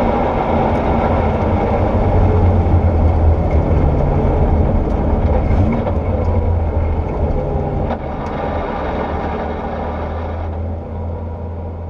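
Porsche 964 rally car's air-cooled flat-six running at low, steady revs, heard from the cabin. It steps down in level about eight seconds in and again near the end, with a few light ticks over the engine.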